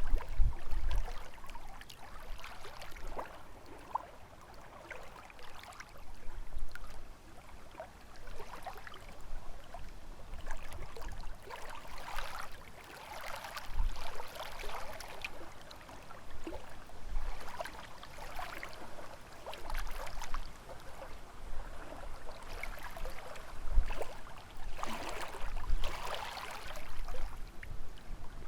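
Small lake waves lapping and splashing against the shore in irregular splashes every second or two, with occasional low rumbles of wind on the microphone.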